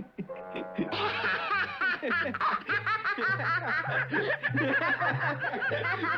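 Voices laughing hard at someone's mishap, breaking out about a second in, over low background music.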